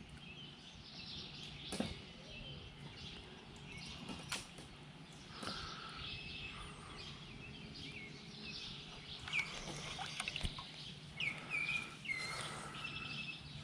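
Birds chirping and calling in scattered short notes, more often in the second half, over a low steady background noise.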